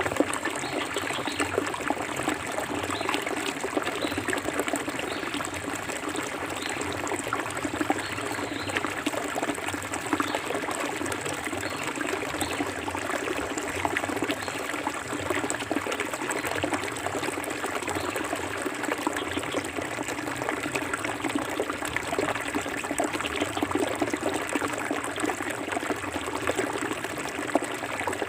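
Forest river water flowing steadily, a continuous rush full of small splashes and trickles.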